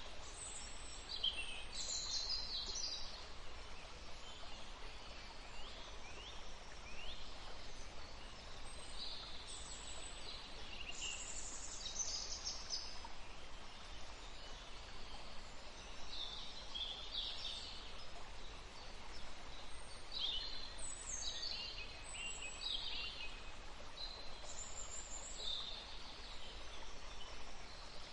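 Songbirds singing short, high chirping phrases every second or two over the steady rush of a forest stream.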